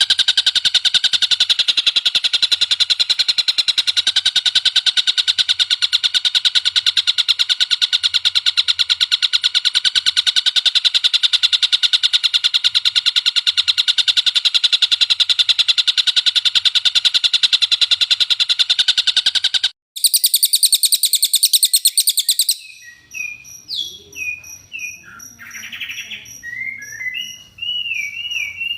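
Recorded songbird song: a long, fast, unbroken chattering trill. A brief break about 20 seconds in leads to a different shrill trill, and then to softer separate chirps and short sliding whistles with a faint high ticking behind them.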